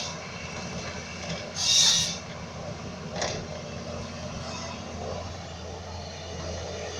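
Forestry excavator's diesel engine running steadily, with a loud short hiss about two seconds in and a fainter one about a second later.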